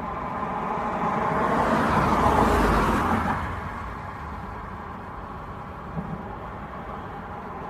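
A road vehicle passing by, its noise swelling to a peak about two to three seconds in and then fading back to a steady traffic rumble.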